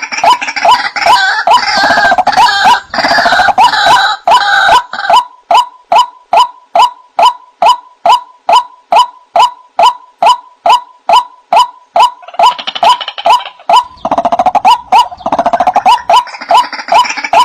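White-breasted waterhen (ruak-ruak) calling: a loud, rhythmic run of short repeated notes at about three a second. The calls are busy and overlapping at first, thin to a clean run of single evenly spaced notes in the middle, and turn busy again in the last third.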